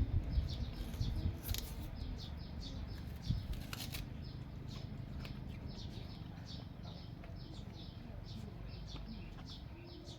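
Small birds chirping over and over, short falling chirps that keep up throughout. Low knocks and rustling in the first second or so, and a couple of sharp clicks early on.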